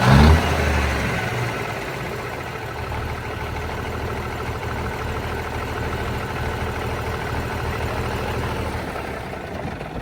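Heavy diesel semi-truck engine idling steadily with a low, even hum, opening with a short loud burst and fading out near the end.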